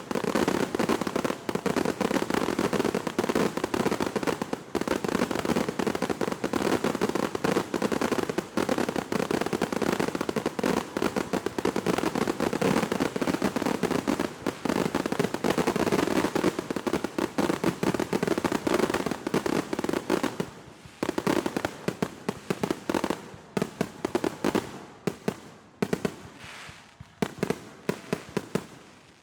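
Fireworks going off in a dense, unbroken rattle of rapid pops and bangs. After about twenty seconds they thin out into scattered single pops that die away near the end.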